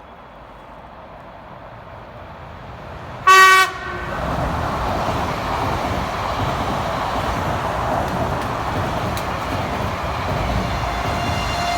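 A train approaching, its noise slowly growing, gives one short, loud horn blast about three seconds in. Then comes the loud, steady rolling noise of the train going by, and a faint high tone joins near the end.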